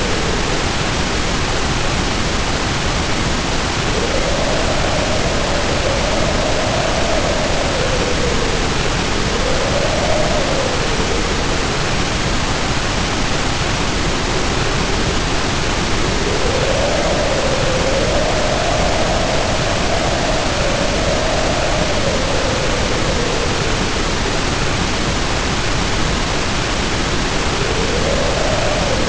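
Storm ambience: heavy rain pouring as a steady, dense hiss, with wind howling over it in a wavering tone that rises and falls, dying away around the middle and returning in gusts.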